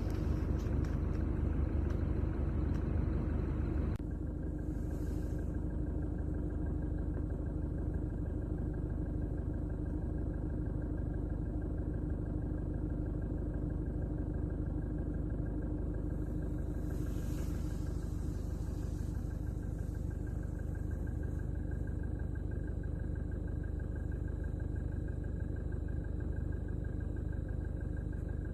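An engine running steadily with a low rumble and a steady hum. A higher hiss over it cuts off about four seconds in.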